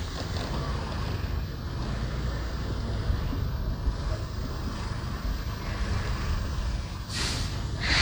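Motorbike riding along a street: steady engine and road rumble with wind buffeting the microphone. Two short, loud hissing bursts come near the end.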